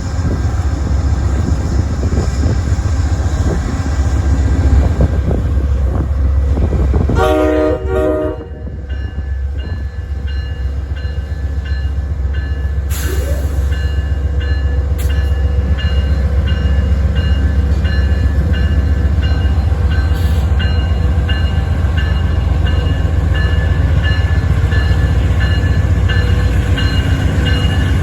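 Amtrak P42DC diesel locomotive rumbling heavily as the train pulls in, with a short blast of its Nathan K5LA five-chime horn about seven seconds in. Afterwards the engine runs steadily while the locomotive bell rings about twice a second.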